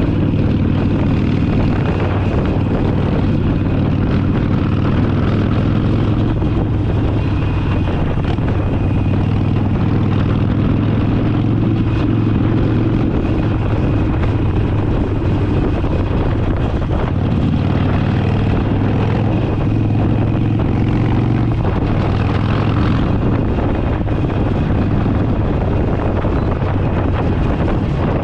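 Harley-Davidson Forty Eight's air-cooled V-twin engine running steadily while under way, a constant low drone whose note shifts a couple of times in the second half.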